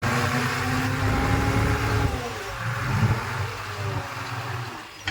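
Diesel engine of heavy earthmoving equipment running, its pitch sliding down about two seconds in.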